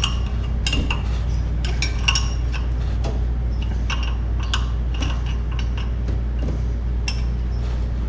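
A wrench clicking and clinking against metal in scattered light strokes while the nuts fastening the cooling fan blades to the fan clutch are tightened, over a steady low hum.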